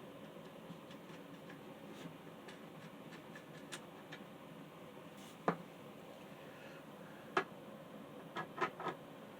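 Handling of an old metal table fan: scattered faint clicks and light knocks, with a sharper click about five and a half seconds in, another near seven and a half, and three quick clicks near the end.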